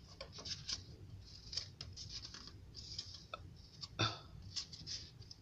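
Microwave oven running with a low steady hum, and faint scattered clicks and ticks over it; a slightly louder knock comes about four seconds in.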